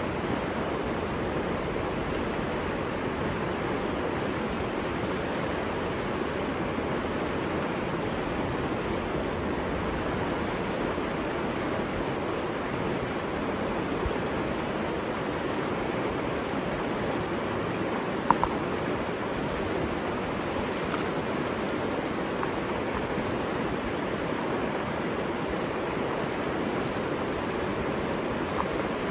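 Steady rushing of river water flowing, with a single sharp click about two-thirds of the way through.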